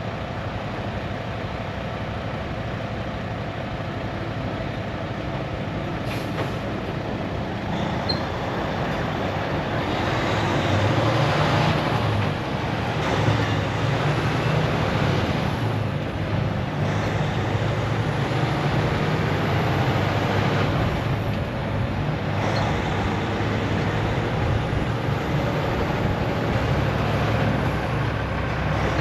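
Heavy truck driving under load: a steady diesel engine note with road and wind noise. The engine note strengthens about eight seconds in, and rushing noise swells up several times.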